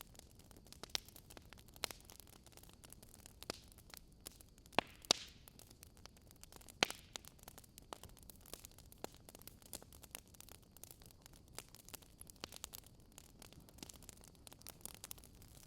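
Wood fire crackling: irregular sharp pops and snaps, a few louder ones near the middle, over a faint steady hiss.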